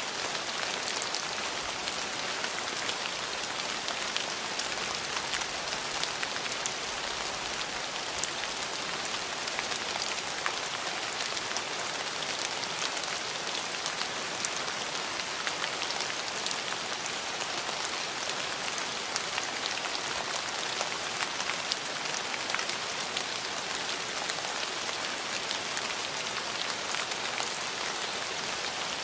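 Steady rain falling on a hard surface, a constant hiss speckled with many small drop ticks.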